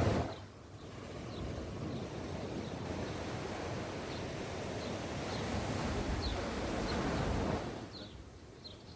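Sea waves washing onto the beach, one long surge that builds and then falls away near the end, with faint, short high chirps over it.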